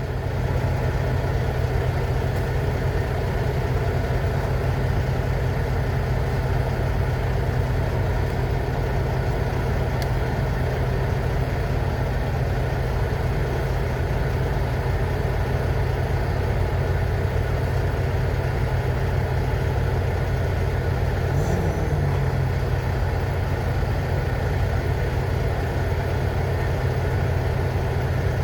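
Semi-truck diesel engine running steadily, a constant low hum with no change in pace.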